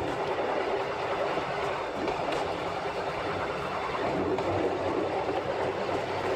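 Narrow-gauge rack-railway train of the Diakofto–Kalavryta line running along the track: a steady noise of wheels and running gear with no distinct events.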